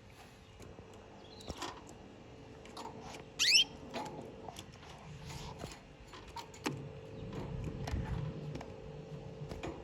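Caged canaries: scattered small clicks and taps of the birds moving about the cage, and one short rising chirp about three and a half seconds in, over a faint steady hum.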